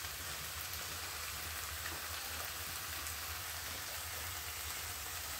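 Chopped onions, peppers and herbs sizzling steadily in a frying pan as a gravy base cooks down, with no stirring.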